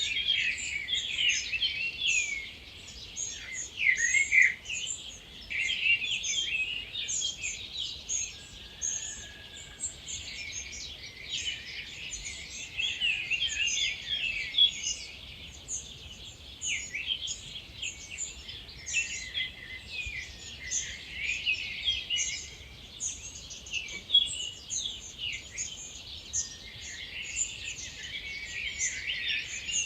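Dawn chorus of many wild birds singing at once, a dense, unbroken mix of overlapping high chirps, trills and short phrases.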